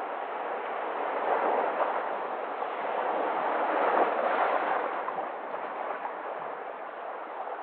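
Steady rushing noise with no distinct tones. It swells slightly about four seconds in and eases a little near the end.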